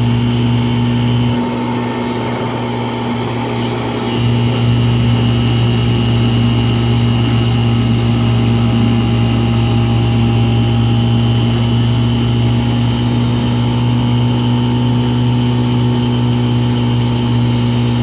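1958 Johnson CD-15 5.5 hp two-cylinder two-stroke outboard motor running steadily under way on a small boat, reported as running great. Its deep note drops back for about three seconds starting about a second and a half in, then picks up again.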